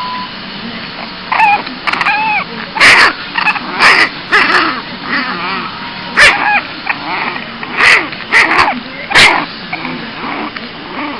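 Boston terrier puppy fussing crankily: a couple of high whining yips, then a string of sharp barks and yaps at irregular intervals.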